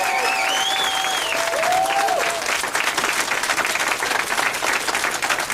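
A group of people applauding, with a couple of voices whooping over the clapping in the first two seconds.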